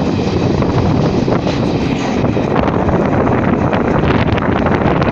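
Garib Rath Express train running, recorded from on board: a steady, loud rumble of wheels on the track with wind buffeting the microphone.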